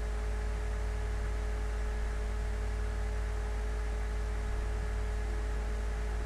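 Steady low electrical hum with an even hiss and a faint constant higher tone, unchanging throughout: the background noise of the recording with no other sound.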